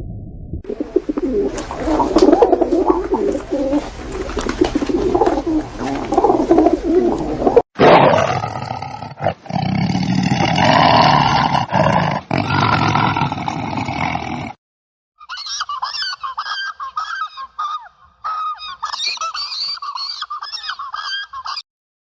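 Three animal sound clips one after another: a low, patterned calling, then a louder, rougher call, then a small bird chirping in quick, bright notes after a short break.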